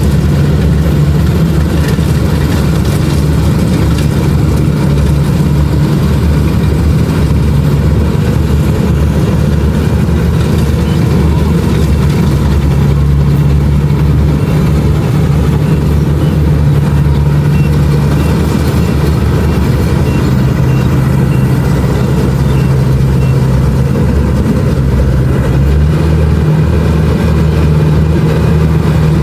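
Kubota DC-70 Plus combine harvester running steadily while harvesting rice, its engine hum shifting slightly in pitch a few times.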